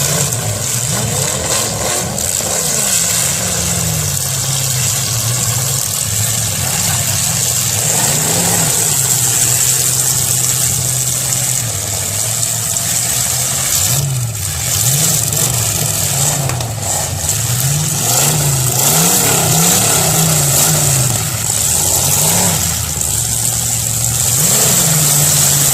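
Several demolition-derby car engines running and revving up and down again and again, with a few sharp knocks about halfway through.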